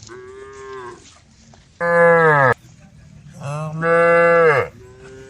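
Cows mooing: a run of calls, a fainter one at the start, then two loud, long moos whose pitch drops away as each ends, and another faint moo near the end.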